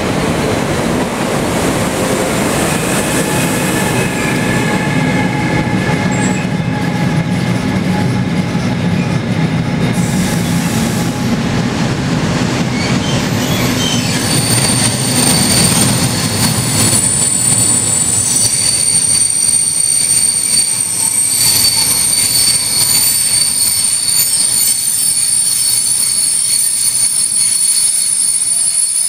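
Freight train behind a Siemens ES 64 F4 electric locomotive passing close by: a heavy, loud rumble of locomotive and wagons, then from about halfway the wagons' wheels squeal steadily at a high pitch over the running noise.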